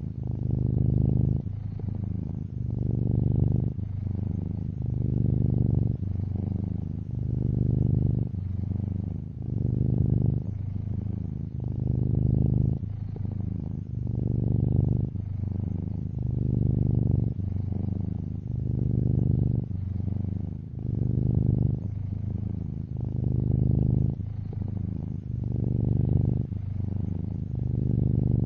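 Domestic cat purring: a low, steady rumble that swells and eases about every two seconds as the cat breathes in and out.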